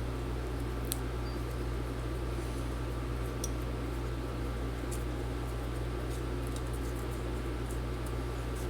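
Steady low hum with faint scratching and a few light ticks as old battery adhesive tape is worked off the aluminium laptop case.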